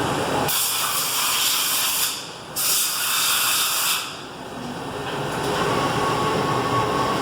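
CNC lathe cutting, with a loud spraying hiss in two spells of about one and a half seconds each, a short break between them. After that the machine runs more quietly, and a faint steady whine comes in over the last couple of seconds.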